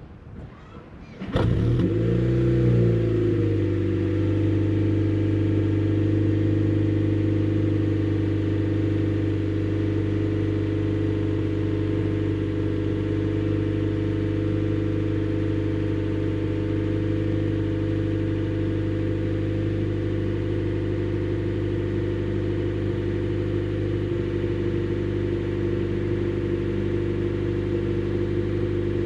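Honda Shuttle Hybrid's 1.5-litre four-cylinder engine, breathing through an HKS Silent Hi-Power aftermarket muffler, starts about a second in. Its pitch shifts for a couple of seconds, then it settles into a steady idle. The hybrid's maintenance mode keeps the engine running.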